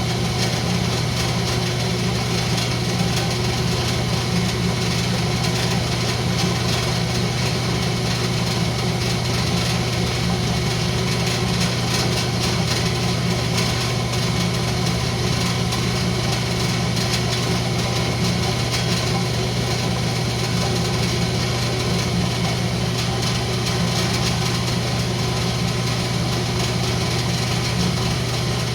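Wood lathe running at a steady speed, a constant even hum with no change in pitch.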